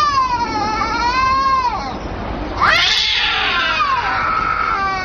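A cat yowling in two long, drawn-out calls whose pitch wavers up and down; the second begins louder a little past halfway and trails off near the end.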